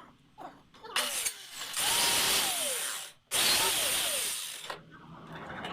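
Power drill running in three short bursts on the wooden frame, the longest about a second and a half, its pitch sagging during each run as the motor takes load.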